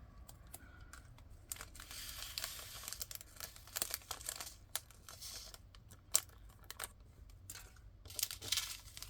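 A small plastic baggie crinkling as it is handled and emptied into a storage container, with a few light clicks and one sharper click about six seconds in.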